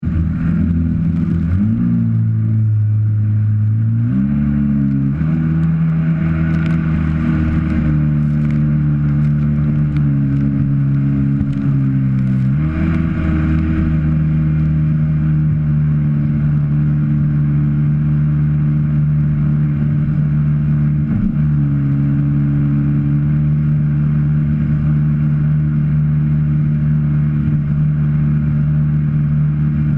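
Jet ski engine running under throttle, its pitch stepping up a few seconds in and again near halfway as it speeds up, then holding steady at speed.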